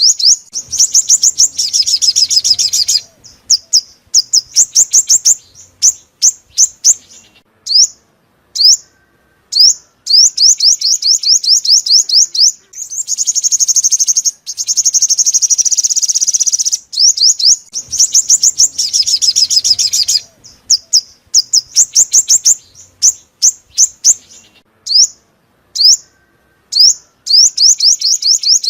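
Song of a sunbird, the five-colour sunbird used as a lure call for trapping. Quick runs of sharp, high chirps and fast trills alternate with longer buzzy trilling passages, and the same sequence comes round again about every 17 seconds.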